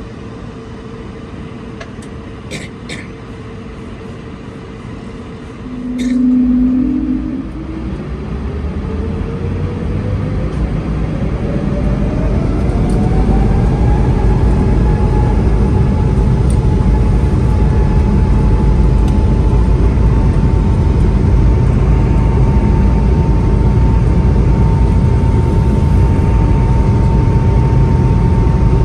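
Airbus A220-300's Pratt & Whitney PW1500G geared turbofan engines spooling up to takeoff thrust, heard from the cabin. A whine climbs in pitch for about eight seconds and then holds steady, while a deep roar builds and stays loud. A few light clicks and a brief low hum come before the run-up.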